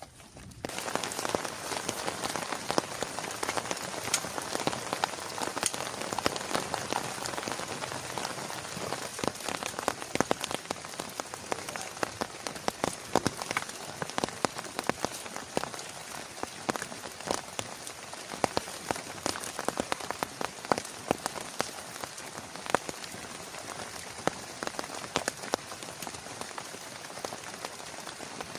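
Heavy rain falling on a nearby surface, a dense steady hiss with many close, sharp individual drop impacts; it comes in suddenly about half a second in.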